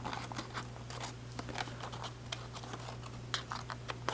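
Paper being folded and pinched by hand: irregular small crinkles and taps of creasing paper, over a steady low electrical hum.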